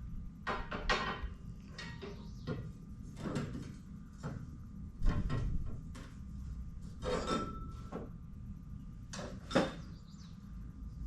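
Irregular knocks, clunks and clatters of tools and pieces being handled on a shop floor, the loudest about five seconds in and just before ten seconds.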